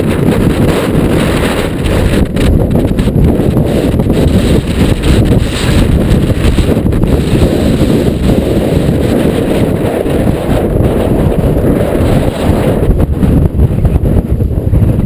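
Strong wind buffeting the microphone in a loud, continuous rumble, with short clicks and knocks scattered through it.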